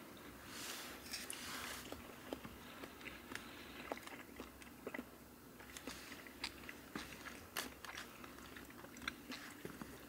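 Close-up eating sounds of a man chewing sashimi: soft mouth and chewing noises with many small, quick clicks as he picks up the raw fish with chopsticks from a plastic bowl.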